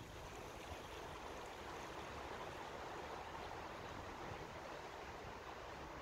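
A faint, steady rushing noise.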